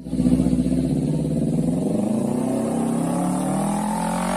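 Kawasaki Ninja 250 parallel-twin engine running loud through a short SC Project aftermarket exhaust. It cuts in abruptly, holds steady, then revs up with the pitch rising from about a second and a half in.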